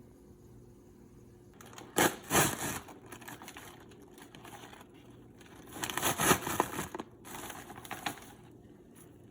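Paper microwave popcorn bag crinkling and rustling as it is handled, in two main bursts and a shorter one near the end.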